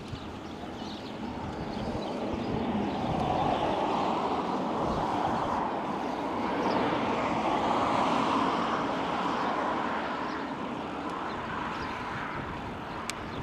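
A passing vehicle: a broad rushing noise swells up over several seconds, is loudest around the middle, and slowly fades.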